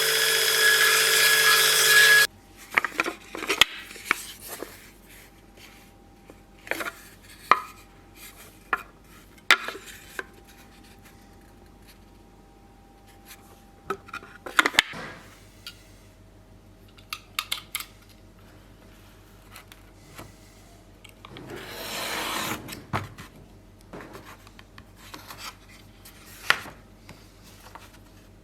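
A power tool running stops abruptly about two seconds in. Then come scattered small knocks, clicks and rubbing of hand work on the knife, with a longer stretch of rubbing about two-thirds of the way through.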